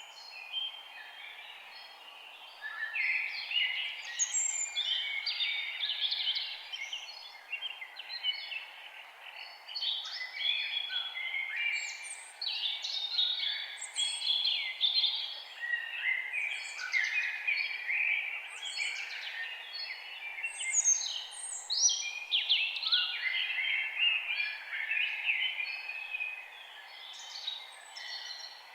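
A chorus of several forest birds singing and chirping at once, dense overlapping short calls and trills over a steady background hiss; the singing thins out for a few seconds near the end.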